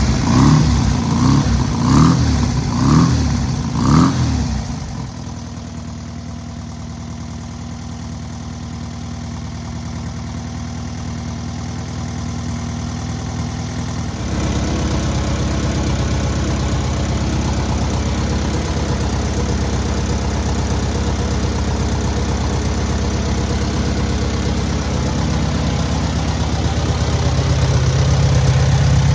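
Rebuilt air-cooled VW 1600cc flat-four engine revved in five short blips about a second apart, then dropping to a steady idle. About halfway through its speed steps up to a faster, louder steady run, rising again near the end.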